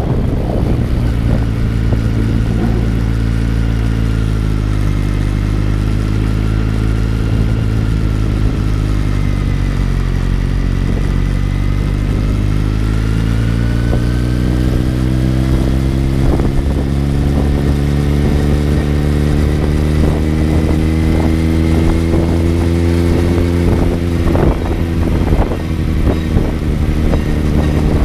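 Kawasaki Z900's 948 cc inline-four engine heard on board while riding, running at moderate revs: the engine note eases down over the first ten seconds or so, then climbs gradually as the bike accelerates, with a few brief irregular knocks and changes in the sound near the end.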